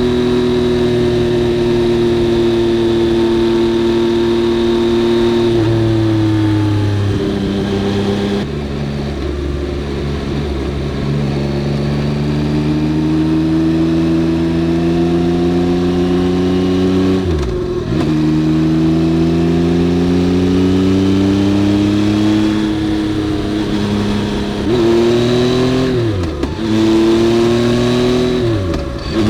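Yamaha XSR900's three-cylinder engine pulling under way. Its pitch climbs slowly over several long stretches, and the revs dip sharply several times in between.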